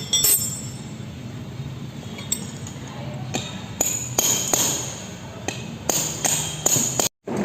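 Metal hand tools striking and clinking on a car's power steering rack as its tie rods are undone: about ten sharp, irregular metallic taps with a high ring, coming thicker in the second half.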